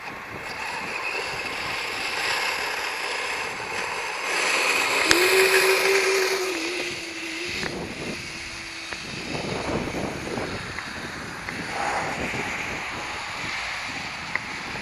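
Kyosho Blizzard radio-controlled snowcat running, its small electric motor giving a steady whine from about four to nine seconds in over the rushing noise of its tracks. Wind buffets the microphone throughout.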